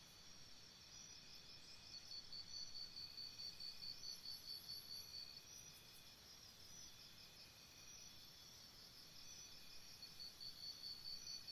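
Crickets chirping faintly in a fast, even pulsing trill, stronger from about two to five seconds in and again near the end.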